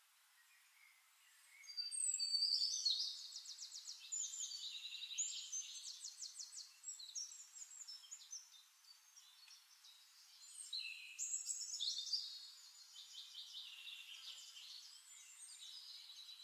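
Songbirds singing: rapid high trills and chirps that start about a second and a half in, with a second loud run of song about two-thirds of the way through.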